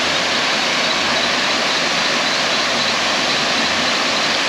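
Waterfall: falling water rushing loudly and steadily, without a break.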